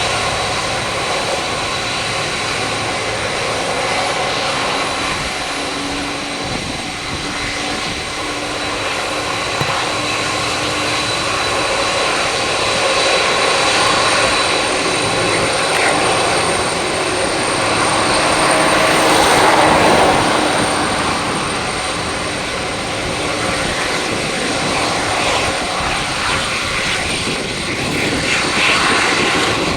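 Boeing 767-200's twin jet engines running, a steady rushing hiss with a high, even whine, swelling a little about two-thirds of the way through and then easing.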